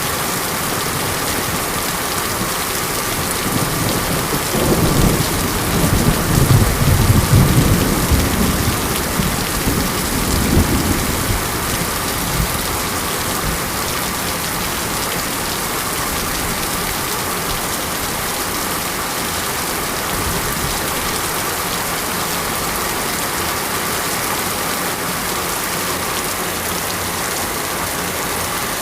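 Steady monsoon rain falling, with a low rolling rumble of thunder that swells about four seconds in and dies away after several seconds.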